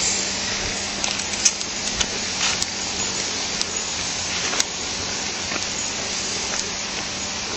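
Stream water rushing steadily, an even hiss, with a few short clicks on top.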